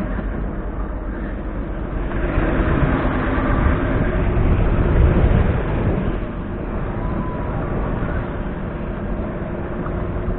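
Small fishing boat's motor running steadily as the boat travels across open water, with wind and water noise. It swells louder around the middle and eases back.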